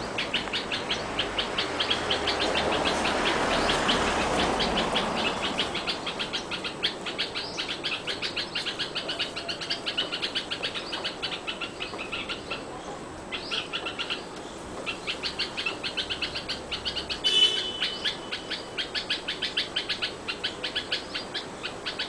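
Birds calling, among them a bulbul: a long series of short, high chips repeated several times a second, pausing briefly past the middle, with one louder call about seventeen seconds in.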